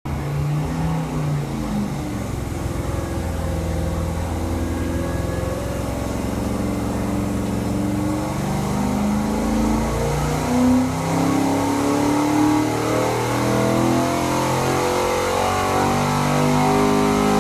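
408 cubic-inch Ford Windsor small-block V8 running on an engine dynamometer during a power pull, its revs climbing steadily as the pull goes on.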